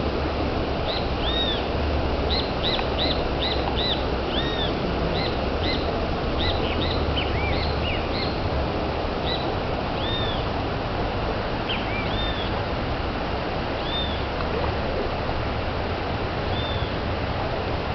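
Steady rush of a waterfall, with birds calling over it in short arched chirps, many in quick succession during the first half and fewer, spaced out, later.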